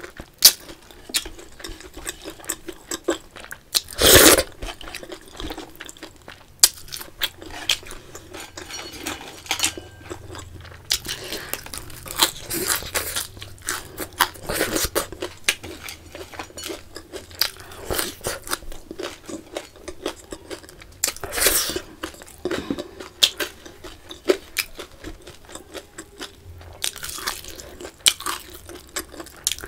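Close-miked eating: wet chewing of rice and curry eaten by hand, broken by loud crunchy bites of fried food, one about four seconds in, another about two-thirds through and more near the end.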